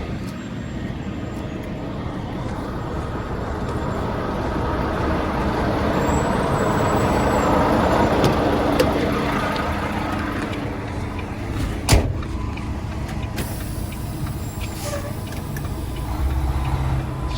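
Volvo semi-truck's diesel engine running, growing louder through the middle as the truck pulls to slide the trailer tandems. There is a single sharp click about twelve seconds in.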